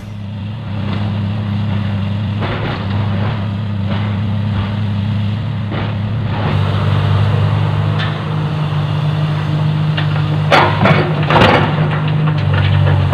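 Heavy diesel engine running steadily, its pitch shifting about six and a half seconds in. A few sharp knocks or clatters come near the end.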